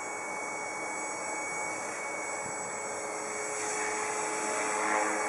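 Align T-Rex 450 Pro DFC electric RC helicopter in flight: a steady whine of the brushless motor and gears over the whoosh of the rotor blades, getting a little louder near the end.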